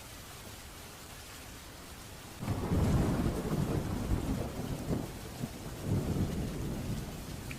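Steady rain, then about two seconds in a thunderclap breaks in suddenly and rolls on as a low rumble in several waves over the rain.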